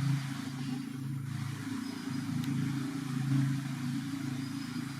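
A motor engine running steadily: a constant low hum that swells and eases a little.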